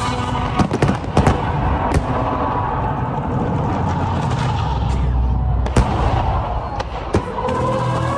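Aerial fireworks going off: sharp cracks in quick succession about a second in, single loud reports at about two seconds, near six and at seven, over a continuous low rumble of shells bursting.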